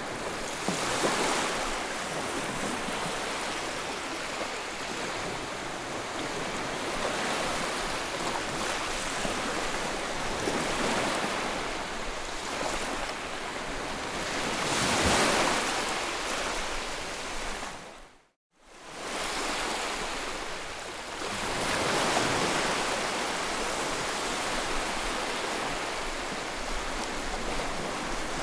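Ocean waves breaking and washing in, an even rush of surf that swells and ebbs every few seconds. About two-thirds of the way in the sound fades out to silence for a moment and quickly returns.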